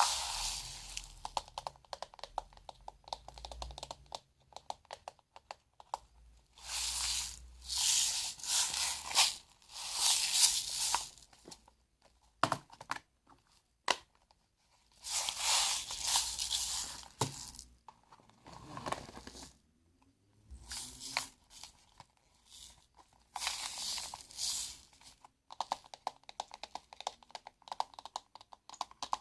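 Close-up crinkling and crackling of a handled material, coming in irregular bursts of a few seconds with quiet gaps between, made for ASMR.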